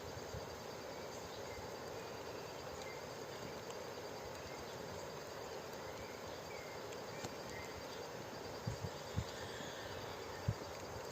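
Cloud-forest ambience: a steady background hiss with an insect's fast, high pulsing trill and a few faint, short bird chirps. A few low thumps come near the end.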